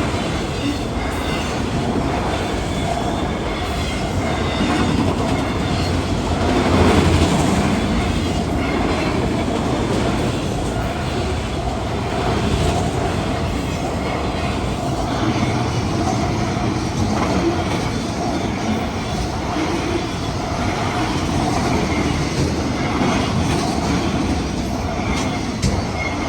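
CSX autorack freight cars rolling past close by: a steady wheel-and-rail rumble with scattered clicks from the rail joints and a thin steady whine from the wheels. It peaks briefly about seven seconds in.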